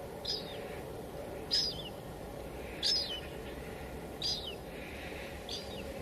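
Steady hiss of light drizzle, with a bird chirping five times, one short call falling in pitch roughly every second and a half.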